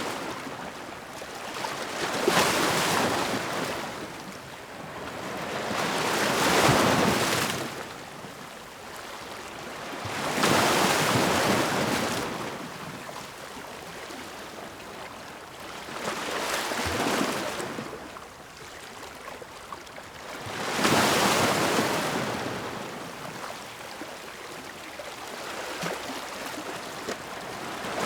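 Ocean waves breaking and washing up the shore, a steady hiss that swells and fades in surges every few seconds, about six in all.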